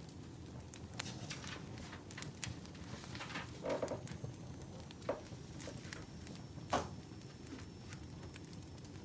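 Burning firewood crackling: irregular sharp pops and snaps over a steady low rush.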